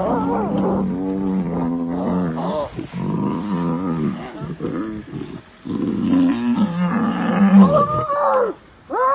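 Lions and spotted hyenas calling over a kill: an almost unbroken run of wavering, pitched moans and growls, ending in a few short calls that rise and fall in pitch.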